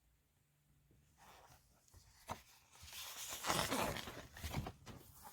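Paper rustling and crinkling with a few sharp clicks, starting about a second in and growing louder: a book's pages being handled and turned.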